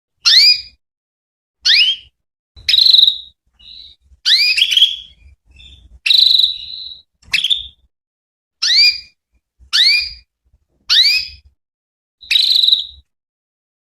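Female domestic canary calling: short, quick rising chirps repeated about once a second, a few of them brief steady whistles. It is the call a female gives that draws male canaries to answer.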